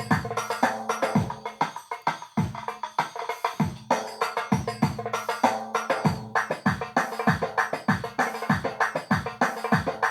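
Korg Pa600 arranger keyboard playing a drum rhythm from a Kronos sound set. The low drum strokes drop in pitch, and they fall in a quick, even pattern over sustained keyboard notes.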